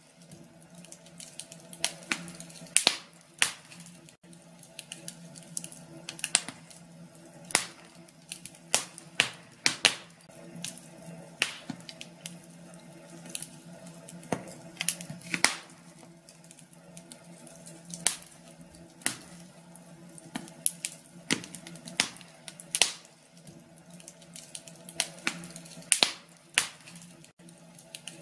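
Wood fire burning in a fireplace, crackling with irregular sharp pops several times a second over a low steady hum.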